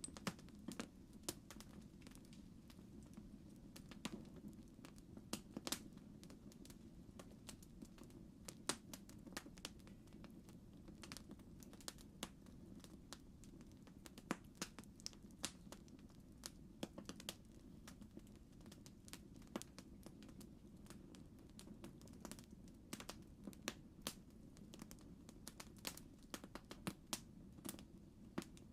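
Campfire crackling faintly, with irregular sharp pops and snaps over a steady low rumble.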